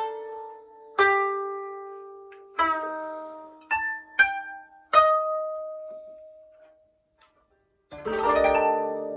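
Koto (Japanese zither) played solo: single plucked notes, each ringing out and dying away, a silent pause of about a second, then a quickly rolled chord across several strings near the end.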